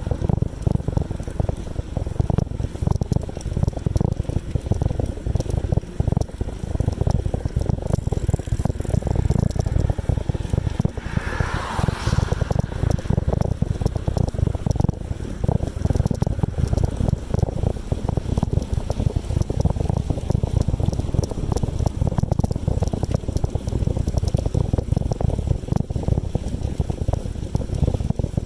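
Wind buffeting the microphone of a camera on a moving bicycle, a loud, ragged low rumble throughout, with a brief higher-pitched sound about eleven seconds in.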